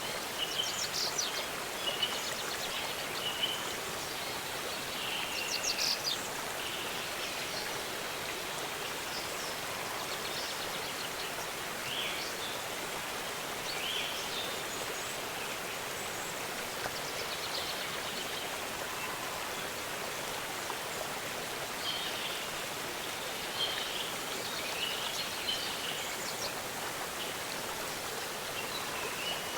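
Steady rush of a waterfall, with small birds chirping and trilling on and off over it.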